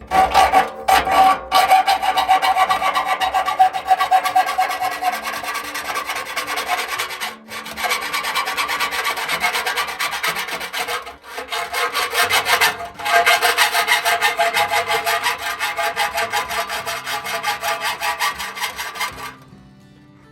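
A hand tool rasping rapidly and steadily through material in fast, even strokes, with two short breaks and stopping about a second before the end.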